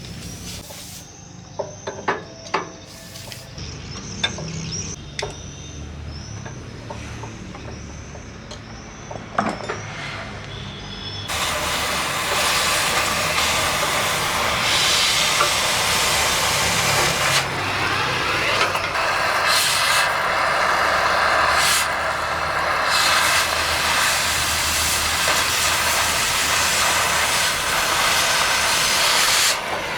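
Low rumble with a few sharp clicks and knocks. Then, about eleven seconds in, a gas cutting torch's flame jet starts with a loud, steady hiss and cuts off suddenly near the end.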